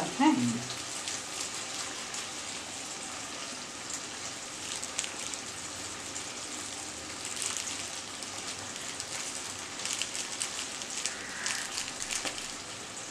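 Diced peppers and paneer sizzling in oil in a wok: a steady hiss with scattered crackles and pops.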